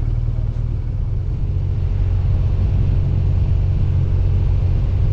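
BMW R1200GS Adventure motorcycle's boxer-twin engine running steadily under way, a low rumble with light road and wind noise.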